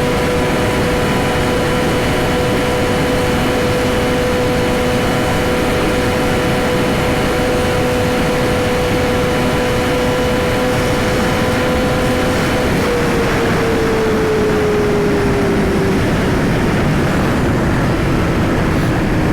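Yamaha R6 sport bike's inline-four engine, fitted with a slip-on exhaust, held at a steady high-revving pitch during a flat-out top-speed run, over heavy wind rush on the microphone. About 13 seconds in the engine note drops steadily as the throttle is rolled off.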